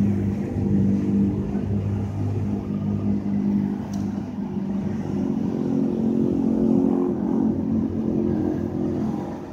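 Daihatsu Sirion's engine idling, a steady low hum heard from inside the cabin.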